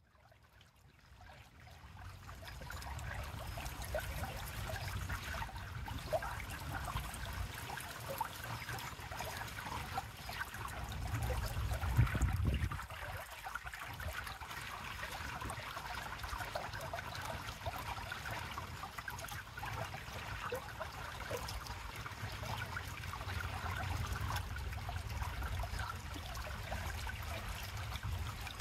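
River water flowing and trickling in a steady babble, with a low rumble underneath. The sound fades in over the first couple of seconds and the rumble swells briefly about twelve seconds in.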